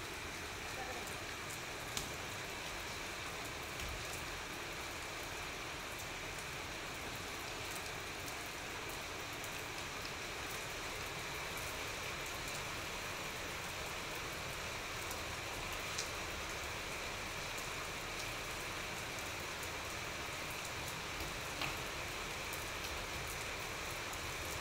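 Steady rain falling on a tiled rooftop floor, with scattered sharp drip ticks; a few louder drops stand out about two seconds in, around the middle and near the end.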